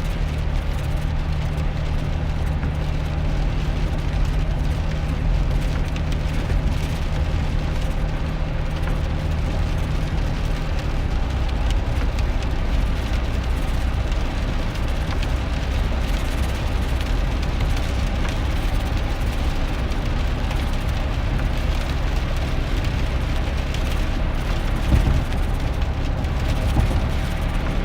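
Cab interior of a 2001 GMC Sierra pickup on the move in the rain: steady engine drone with tyre and rain noise. The engine note drops to a lower pitch about ten seconds in.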